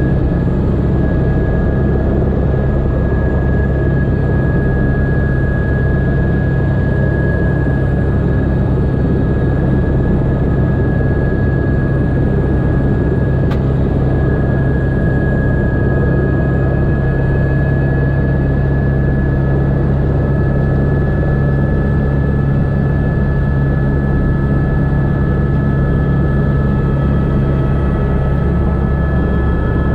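Helicopter running, heard from inside the cockpit: a steady drone of engine and rotor with a constant high turbine whine over it, changing little throughout.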